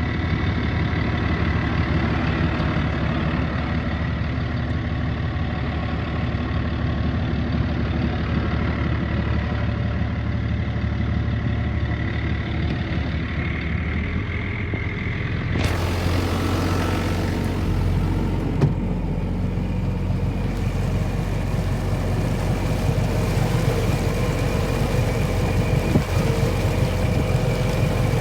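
Yamaha SX420KSH sterndrive boat engine running steadily. About halfway through, a wide hiss of wind or water noise comes in over the engine.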